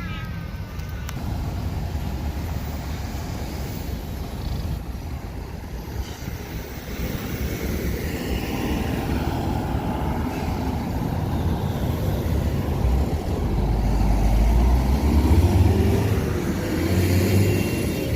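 Car on the road heard from inside, a steady rumble of engine and road noise that grows louder about two-thirds of the way through.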